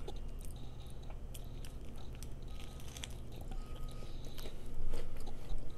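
A person chewing a mouthful of homemade burger close to a small lapel microphone: soft wet smacking with small crunches and clicks, louder for a moment near the end.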